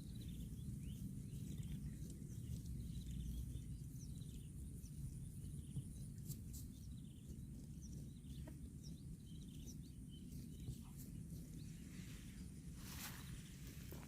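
Faint outdoor ambience: a steady low rumble with scattered small high chirps and clicks, and a short rustling burst near the end.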